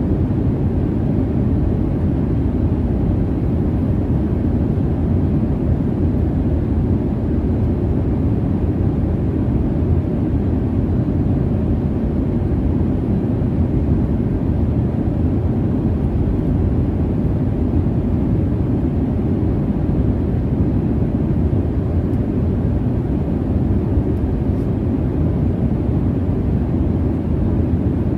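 Steady jet airliner cabin noise: a low, even rumble without pitch, most of it in the bass, with no distinct events.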